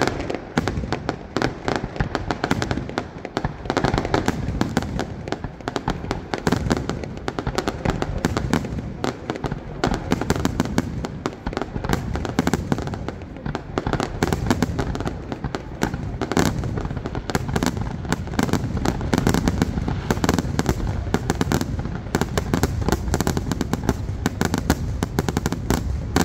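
Fireworks display with aerial shells bursting in rapid, unbroken succession: a dense barrage of bangs, many a second, typical of a display's closing finale.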